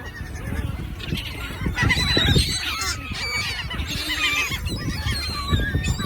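A flock of birds squawking and calling over one another, many overlapping harsh calls at once, over a low rumbling noise.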